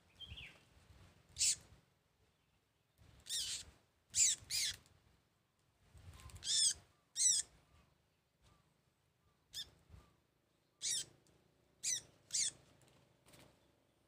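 A small wild bird held in the hand giving about ten short, harsh squawks in uneven bursts, some in quick pairs: the distress calls of a freshly caught bird being handled. Faint rustling of the hands between calls.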